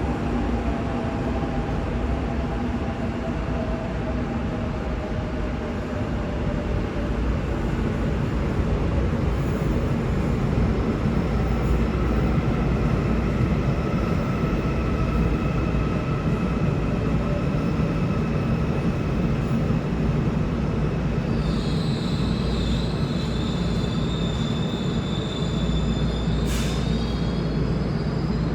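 Seoul Subway Line 1 electric train running into the underground station with a steady rumble and a motor whine that falls in pitch over the first few seconds as it slows. A higher steady whine joins about two-thirds of the way in, and a single sharp click sounds near the end.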